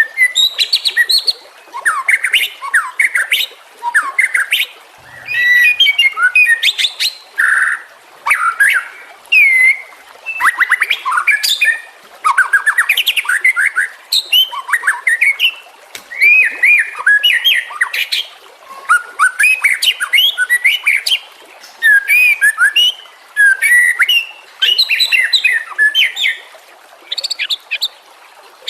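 White-rumped shama (murai batu) singing: a run of varied whistled phrases mixed with fast, sharp notes, each phrase a second or two long with short pauses between.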